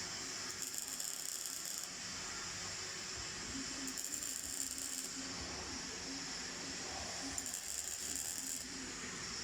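MIG welder arc crackling steadily on steel, with three short spells of sharper, brighter hiss.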